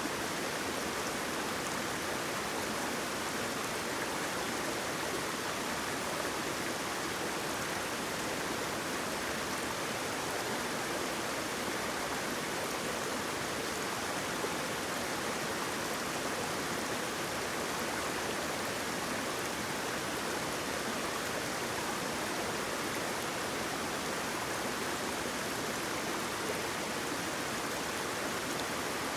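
Waterfall: water falling and running with a steady, even rush that never changes.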